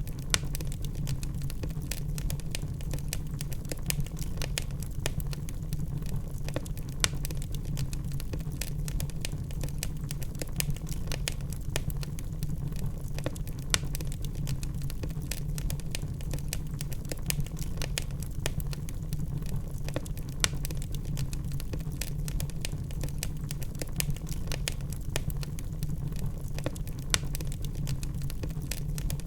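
Wood fire burning in a fireplace: logs crackling with many small rapid pops over a steady low rumble of flame. A louder pop stands out about every six or seven seconds.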